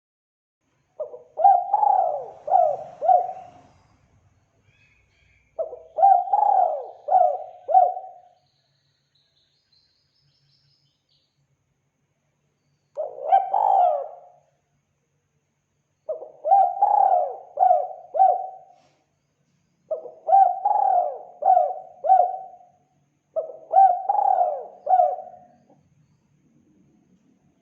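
Spotted dove cooing: repeated phrases of several quick coos each, a few seconds apart, with one shorter phrase in the middle.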